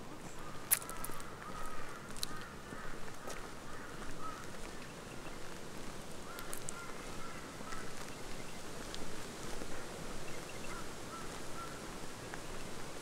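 Birds calling in runs of short, quick notes, with a few sharp clicks, the loudest about a second in, over a steady background hiss.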